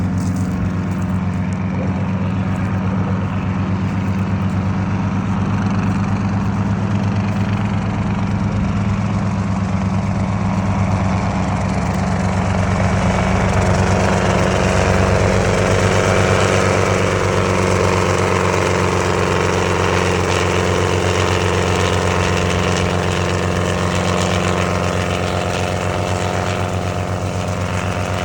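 Helicopter running close by: a steady, fast rotor beat with a turbine whine over it, growing a little louder about halfway through, then easing back.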